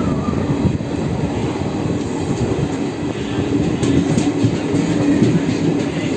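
Train running along the line, a steady rumble with wheels clicking over the rail joints.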